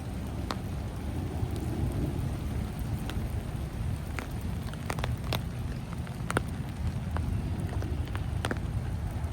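Rain outdoors: scattered drops landing with sharp, irregular ticks over a steady low rumble.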